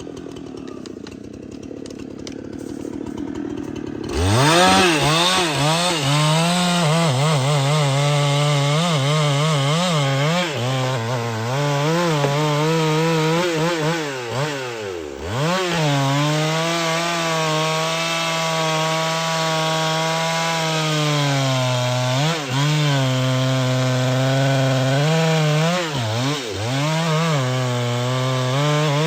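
Chainsaw engine, lower for the first few seconds, then opened up to full throttle about four seconds in and cutting wood. It holds a high steady note whose pitch wavers and dips briefly a few times under load.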